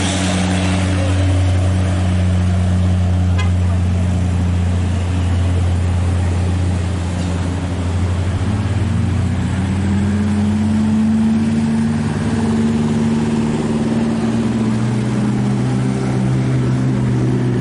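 Dump truck's diesel engine labouring at full throttle up a steep climb, a steady low drone. About halfway through, a second, higher engine tone rises and then holds.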